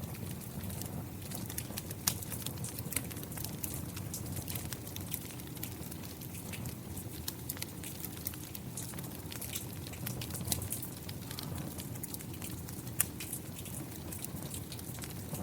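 Steady rain falling, with a fireplace fire crackling over it in many small sharp pops and one louder pop near the end.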